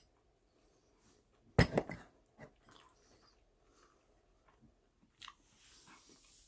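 A person eating and chewing food. A loud bite comes about a second and a half in, followed by quieter chewing with small mouth clicks and soft breathing near the end.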